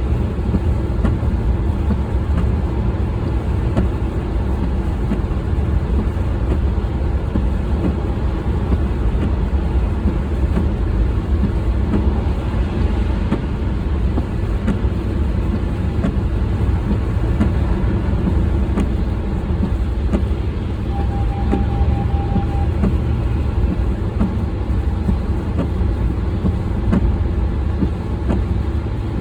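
Car on the move: a steady low rumble of engine and road noise. A short, steady beep sounds about two-thirds of the way through.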